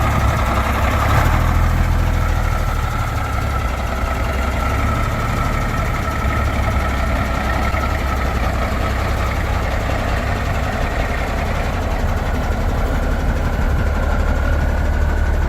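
Heavy diesel truck engine running steadily at low speed, a deep rumble with a steady higher tone above it.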